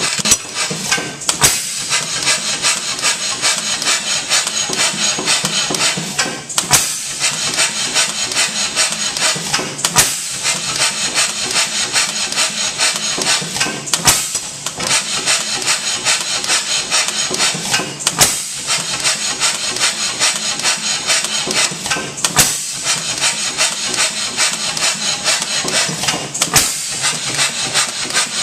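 H.M. Spence hit-and-miss gas engine running, with a steady fast clatter between firings and a sharp bang about every four seconds as it fires, then coasts.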